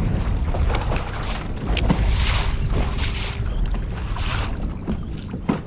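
Wind rumbling on the microphone while water splashes in short swells about once a second, with a sharp knock a couple of seconds in and another near the end.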